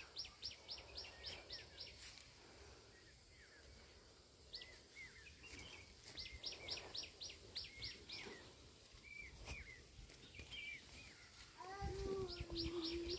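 Small birds calling: a fast run of high, evenly spaced notes, about five a second, comes three times, with scattered chirps between. The sound is faint.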